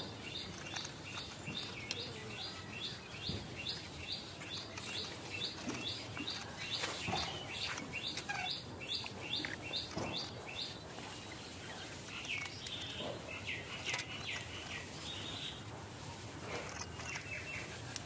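A bird calling outdoors in a fast, even run of high chirps, about three a second, for the first ten seconds or so, then looser chirps. Scattered knocks and scrapes of a blade cutting fish on a metal tray come through at the same time.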